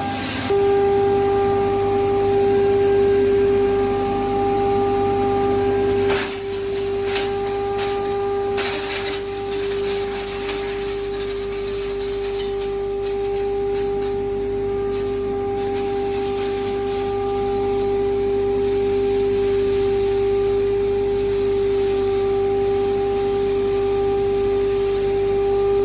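Large hammer mill driven by a 55 kW electric motor, running at speed with a steady high-pitched whine. A cluster of sharp clicks and rattles comes about six seconds in and lasts a few seconds.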